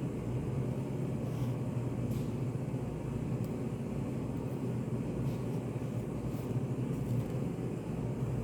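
Study café room ambience: a steady low hum with a few faint, soft ticks scattered through it.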